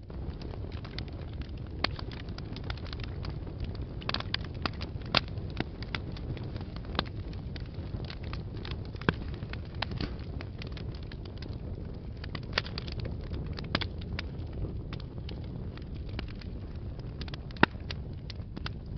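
Wood fire burning in a fireplace: a steady low rumble of flames with irregular sharp crackles and pops, the loudest pop near the end.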